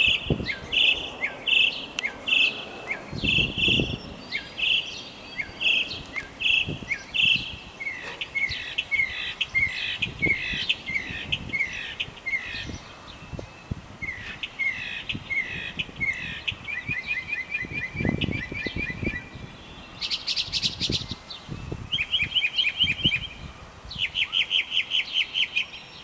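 Mockingbird singing a long, varied song, repeating each phrase several times before switching to the next: a run of slurred whistled notes about two a second, then fast trills and, near the end, a short high buzzy burst and more trills.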